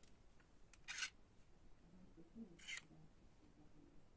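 Quiet handling noise: two short scraping rubs, about a second and a half apart, with a few faint clicks, typical of toy cars or their packaging being handled.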